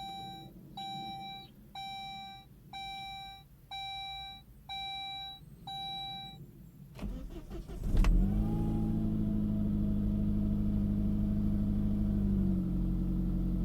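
A 2000 Saab 9-5 2.0t's dashboard warning chime sounds seven times, about once a second. About eight seconds in, the turbocharged four-cylinder engine cranks and starts, then settles into a steady fast idle that drops a little near the end. It has a whine that rises and falls with the revs, which the owner suspects comes from the power steering pump or another belt-driven accessory rather than a clogged oil pickup.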